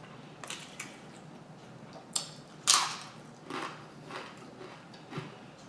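Person chewing crisp, crunchy food close to the microphone: a series of irregular crunches, the loudest about two and a half seconds in.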